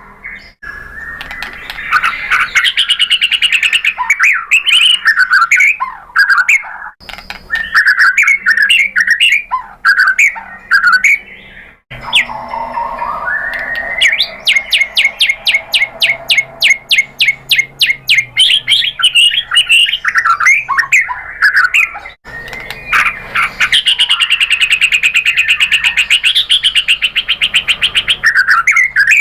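White-rumped shama (murai batu) singing loudly: a varied song of whistles and chirps, with a fast run of rapidly repeated notes near the middle. The song breaks off abruptly a few times.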